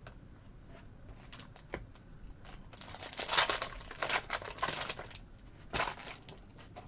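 Plastic trading-card pack wrapper being torn open and crinkled, after a few light clicks of cards being handled; the crinkling is densest in the middle, with one more short crackle near the end.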